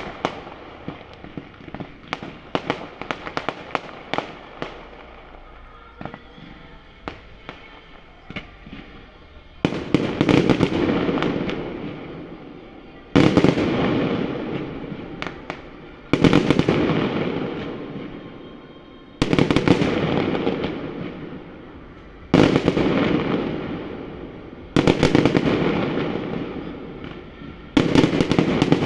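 Fireworks display: for the first nine seconds or so a rapid crackle of many small pops, then a run of big aerial shell bursts about every three seconds, each a sudden loud bang that dies away over a few seconds in a crackling rumble.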